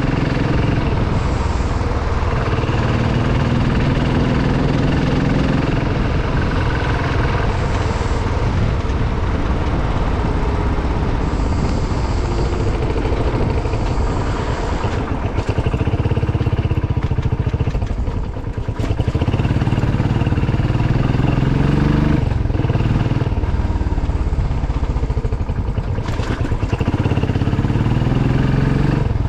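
Motorcycle engine running while riding, its revs rising and falling several times, with a short drop in engine sound near the middle.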